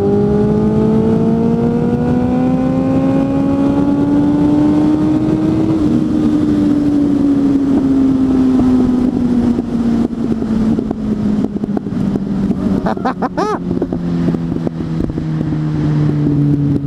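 Suzuki GSF 600 inline-four motorcycle engine with an aftermarket exhaust, pulling in gear with the pitch rising slowly for about six seconds. Then it eases off and the note falls gently. The sound turns choppy and uneven in the second half.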